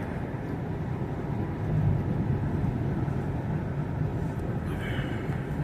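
Steady low rumble of a car's engine and tyres heard from inside the moving car, driving on a snowy road.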